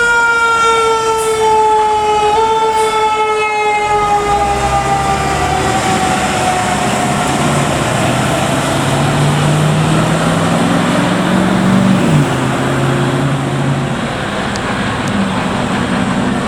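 Fire ladder truck passing on a response: its siren's wail slides slowly down in pitch and fades over the first six seconds, then the truck's engine rises steadily in pitch as it accelerates and drops suddenly about twelve seconds in, as at a gear change, over steady road noise.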